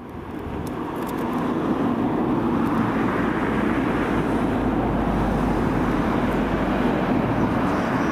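A train passing through the station, its rumble building over the first second and then holding steady and loud.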